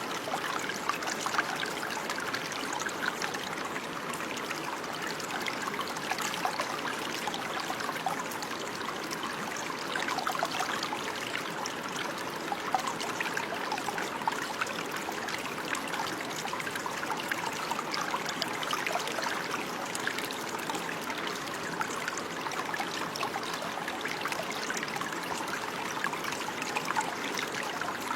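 Running water, a steady stream trickling and babbling with many small splashes.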